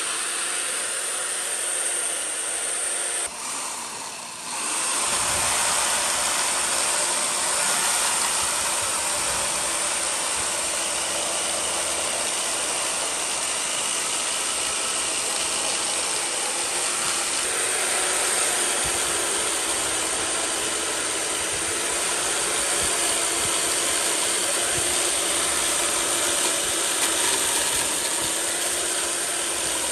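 Woodworking power tool running steadily: a motor hum under a dense, hissing cutting noise, dipping briefly about three to five seconds in.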